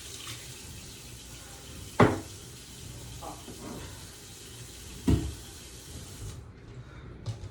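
Water running from a tap into a sink, shutting off about six seconds in, with two loud knocks along the way.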